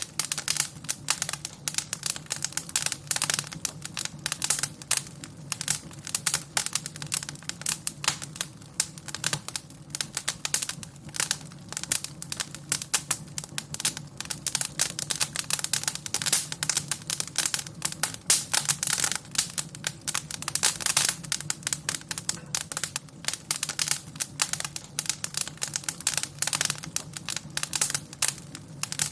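Wood fire in a fireplace crackling: dense, irregular pops and snaps, several a second, over a low steady undertone.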